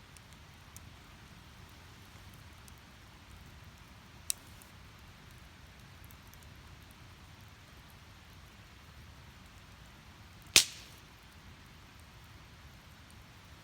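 Split firewood burning in a fire pit: a low steady hiss with faint crackles, one sharp pop about four seconds in and a much louder pop about three seconds before the end.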